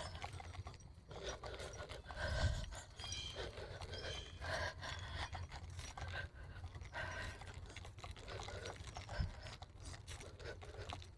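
A person breathing audibly while walking, a soft breath every couple of seconds, over a steady low rumble on the microphone.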